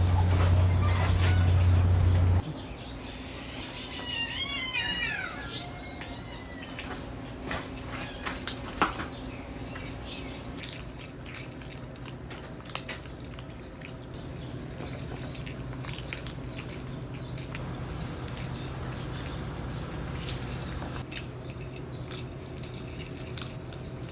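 A cat meowing once, a long call that rises and falls, a few seconds in, followed by scattered small clicks and taps. A loud low hum fills the first couple of seconds and cuts off suddenly.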